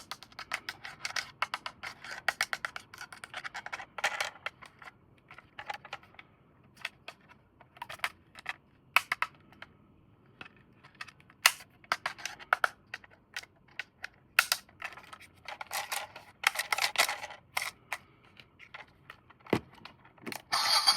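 Plastic toy parts and packaging being handled: a run of light clicks, snaps and rattles, thick for the first few seconds and then sparser, with one sharper knock near the end.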